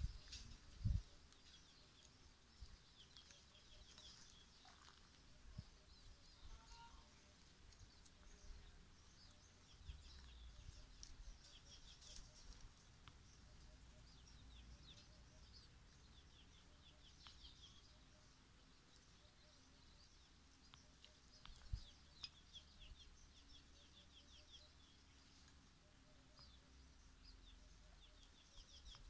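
Quiet outdoor ambience with faint chirping of small birds in short high series throughout. A sharp low bump comes about a second in, and another about three quarters of the way through.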